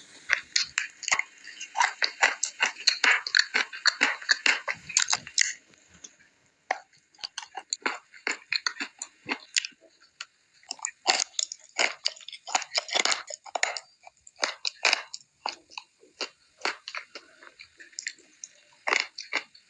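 Close-miked crunching and chewing of dry dark blue Uzbek eating clay. The crackle is dense for about the first five seconds, then slows to separate crunches with short pauses.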